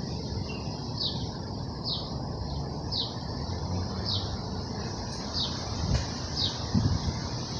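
A bird repeating a short, falling chirp about once a second over a steady low background rumble, with a couple of low thumps near the end.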